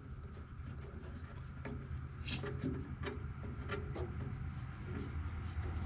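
Light scrapes and scattered clicks of hands working a fuel fitting on an old tractor, opened up to check fuel flow, over a steady low hum.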